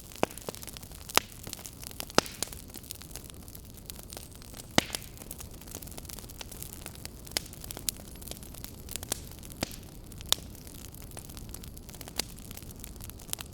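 Wood fire burning in a fireplace, crackling: sharp, irregular pops and snaps, roughly one a second and some much louder than others, over a steady low rumble of the flames.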